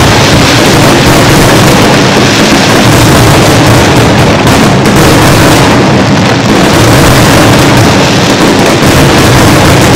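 Aerial fireworks going off in a dense, continuous barrage of overlapping bursts and bangs, loud enough to overload the recording.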